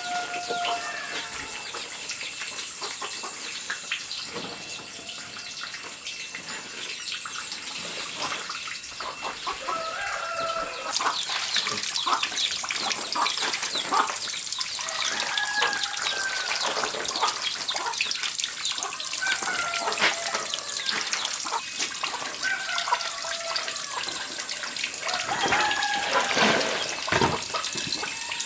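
Chickens clucking in short calls every few seconds over a steady high-pitched hum. A crackling hiss grows louder about eleven seconds in.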